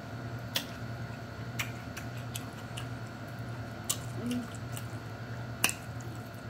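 Close-up eating sounds: scattered crisp crunches and mouth clicks as cucumber slices and crackers are bitten and chewed, over a steady low hum.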